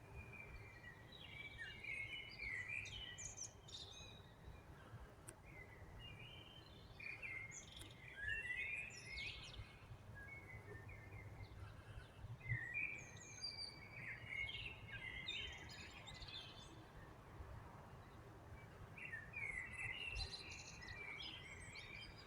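A songbird singing in four warbling phrases of two to four seconds each, a few seconds apart, over a steady low background rumble.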